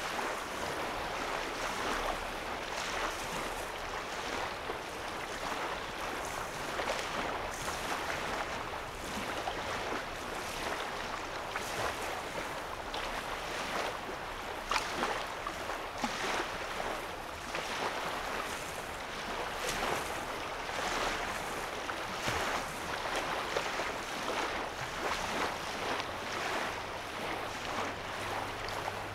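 Small waves on a calm lake lapping against the sandy shore: a continuous wash of many small, irregular splashes.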